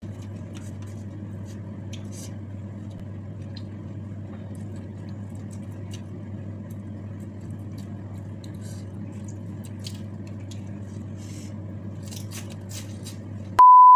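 Mukbang eating sounds: scattered crunches and mouth noises of someone tearing and chewing raw leafy vegetables over a steady low hum. Near the end there is one short, loud, steady beep.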